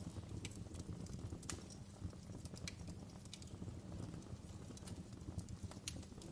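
Wood fire burning in a fireplace: a steady low rumble of the flames with irregular sharp crackles and pops of the burning logs, a few each second.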